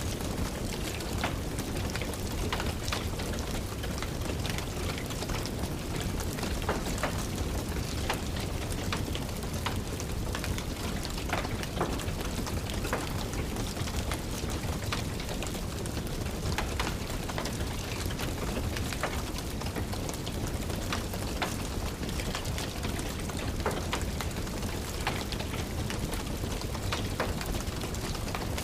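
Steady rain with a wood fire crackling in a fireplace: irregular sharp pops over an even hiss.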